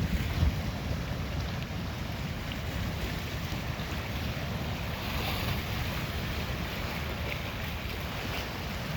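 Wind buffeting the microphone as a steady low rumble over the wash of Lake Superior waves, with a brief swell of surf hiss about halfway through.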